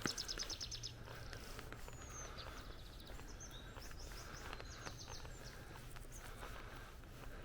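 Small birds calling: a quick trill of high notes right at the start and another about halfway, with scattered high chirps and a short whistle, over a steady low rushing background.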